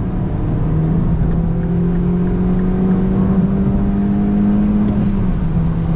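MINI Clubman John Cooper Works (R55) turbocharged 1.6-litre four-cylinder pulling hard, heard from inside the cabin, its revs climbing slowly and steadily. A little after five seconds in the pitch drops as it shifts up a gear.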